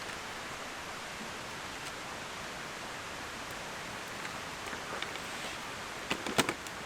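Steady rushing outdoor noise, with a quick cluster of sharp knocks and clicks near the end.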